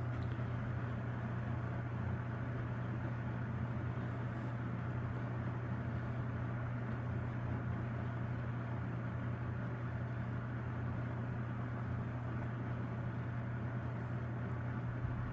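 Toastmaster 4435 20-inch box fan with its McGraw-Edison motor running on low speed: a steady low motor hum under an even rush of air from the blade.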